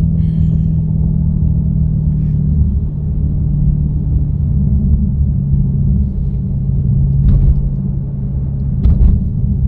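The Dodge Hellcat's supercharged Hemi V8 drones steadily as the car drives, heard from inside the cabin. Its pitch steps down slightly a few times, and there are a couple of faint knocks near the end.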